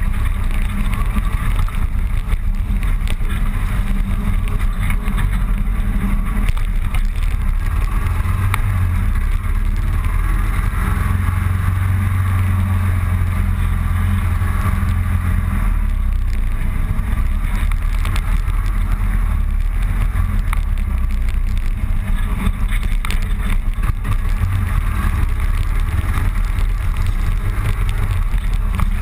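Motorcycle running steadily at road speed, with a continuous low engine drone under road and wind noise.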